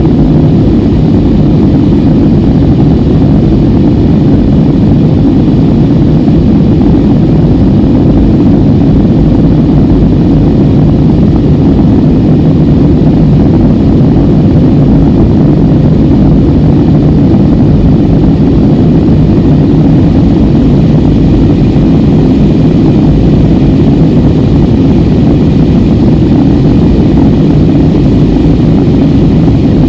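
Airbus A320 cabin noise in flight: a steady low rumble of engines and airflow that does not change.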